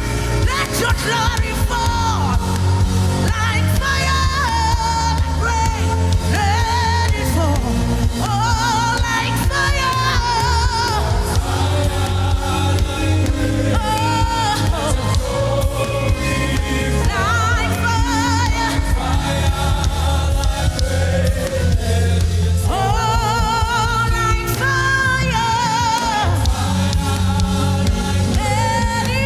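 Gospel worship music: a lead singer holding long notes with a wide vibrato over a steady band with a strong bass line.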